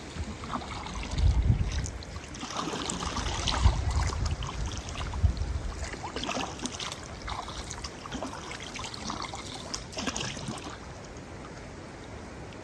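Kayak paddling: the paddle blades dip and splash in the river, and water trickles off them in irregular bursts. A few dull low thumps come in the first few seconds, and things settle after about ten seconds.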